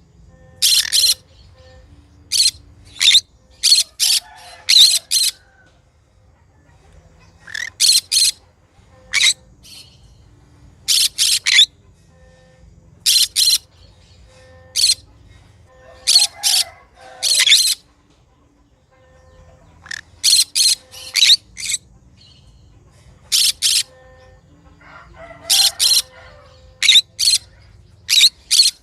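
Green conure calling: short, shrill chirps in quick runs of two to five, with brief pauses between runs.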